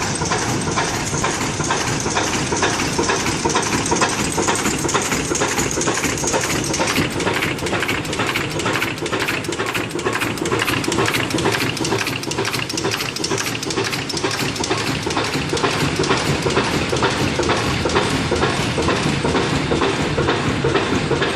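Slow-running 1926 stationary diesel engine, nominally 260 rpm, running steadily with an even, rhythmic mechanical clatter. A high hiss sounds over it and stops about seven seconds in.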